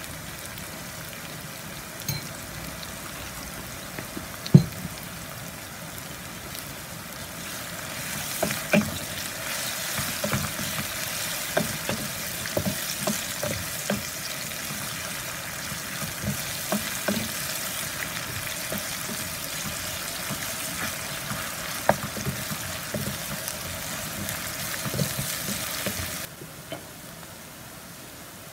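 Sliced onions frying in oil in a nonstick wok, a steady sizzle. From about eight seconds in, a wooden spatula stirs them, with frequent knocks and scrapes against the pan and a louder sizzle. The sound drops off suddenly near the end.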